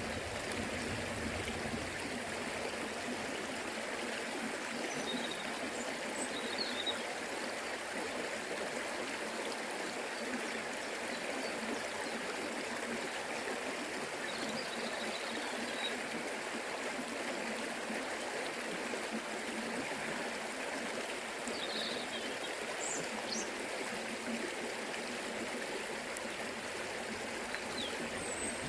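Forest river flowing, its water rushing and trickling in a steady, even wash of sound.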